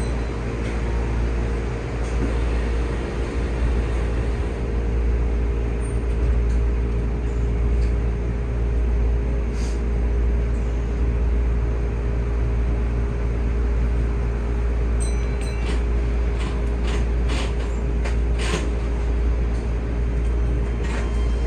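Steady low hum of a Keihan 3000-series train's onboard equipment, heard from inside the driver's cab while the train stands. A run of sharp clicks comes about fifteen seconds in.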